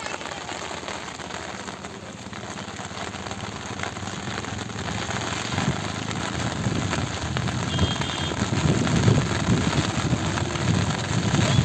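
Steady rain falling on a flooded rice paddy, an even hiss throughout. From about halfway, louder irregular low thumps and rumbles join in.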